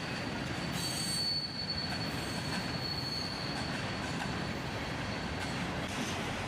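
Freight train cars rolling past, the wheels rumbling on the rails, with a thin, steady high-pitched wheel squeal from about a second in.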